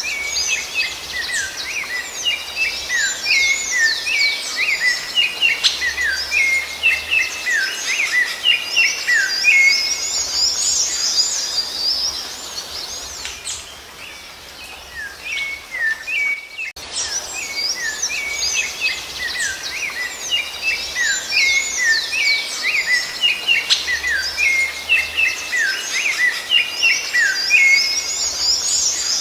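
Rufous-bellied thrush (sabiá-laranjeira) singing a fast, dense run of whistled, sweeping notes. The song eases off about halfway through, then starts again with the same run of notes.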